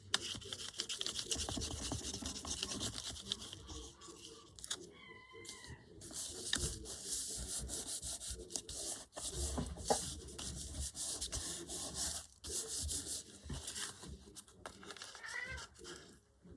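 Dry rubbing of paper handled by hand, in several stretches of a few seconds with short pauses between them.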